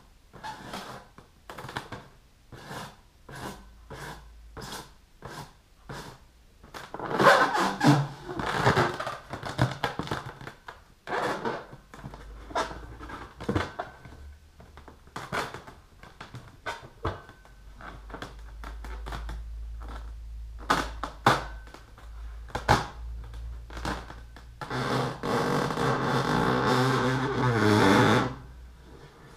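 Long fingernails tapping and scratching on a rubber balloon, a quick run of light taps, with stretches of squeaky rubbing on the balloon's skin. Near the end a louder squeal sliding down in pitch for about three seconds, cut off suddenly.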